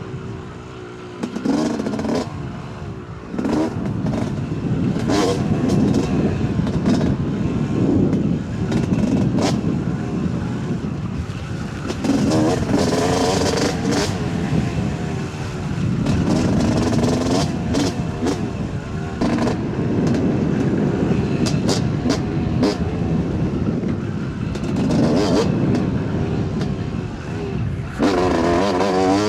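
Yamaha YZ250 two-stroke dirt bike engine revving up and down over and over as the throttle is worked on the trail. It is quieter for the first couple of seconds, then louder.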